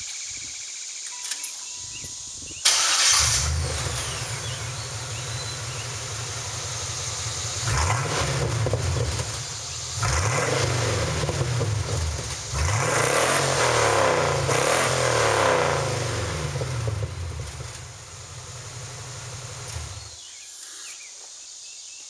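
1996 Chevrolet Impala SS's 5.7-litre LT1 V8 breathing through Dynomax Bullet race mufflers and pre-axle dumped exhaust: it starts suddenly a few seconds in, idles, is revved in several blips that rise and fall, then is shut off a couple of seconds before the end.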